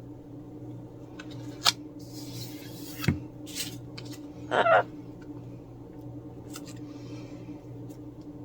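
Small clicks, taps and rustles of coaster backings and craft materials being handled on a table, over a steady low hum. A parrot gives one short call about four and a half seconds in.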